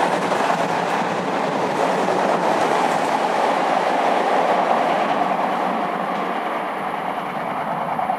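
Odakyu Romancecar LSE (7000 series) electric express train running fast through an underground station and tunnel: a loud, steady rumble of wheels on rail that eases off a little toward the end.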